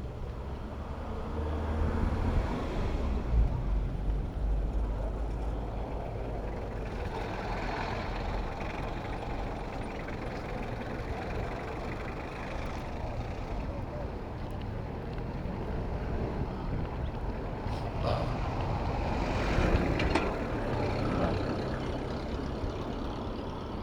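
Urban road traffic heard from a moving bicycle: the steady rumble of car and truck engines and tyres, swelling as vehicles pass a few seconds in and again near the end.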